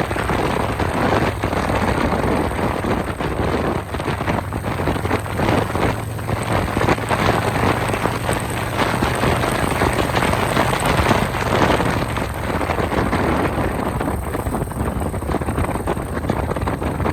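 Wind rushing over the microphone of a moving motorcycle, with the Harley-Davidson Road Glide's V-twin engine running steadily underneath; the engine note fades a little near the end.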